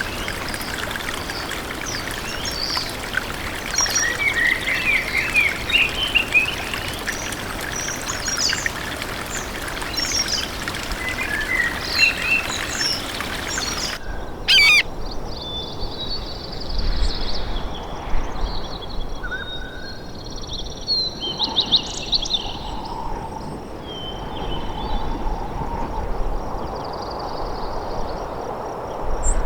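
Wild birds chirping and singing, many short calls, over a steady background rush of outdoor noise. About halfway through the sound cuts abruptly to a duller recording, where the bird calls carry on more sparsely.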